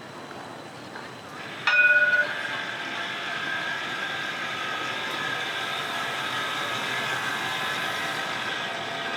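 Tram giving a short horn blast, a few clear tones together for about half a second, about two seconds in. The tram then runs past with a steady rolling noise carrying several high steady tones.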